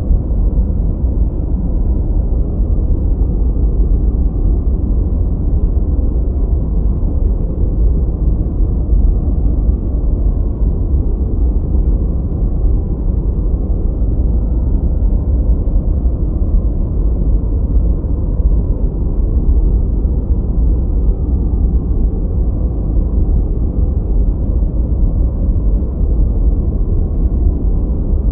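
Steady relaxation noise of the white-noise family, deep and muffled, with its weight in the bass and almost no treble, unchanging throughout.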